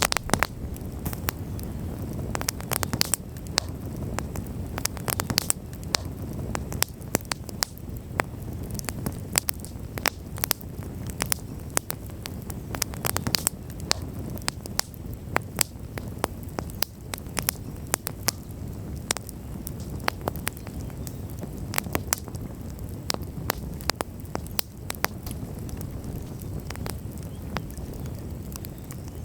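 Wood campfire burning, with frequent sharp, irregular crackles and pops over a steady low rumble of flame.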